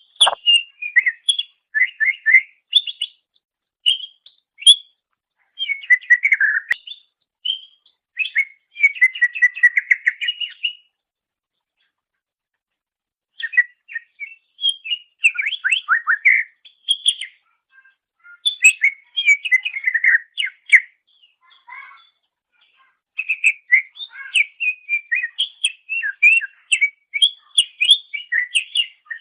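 Greater green leafbird (cucak ijo) singing: quick runs of chirps and short whistled notes, broken by a pause of about two seconds about halfway through.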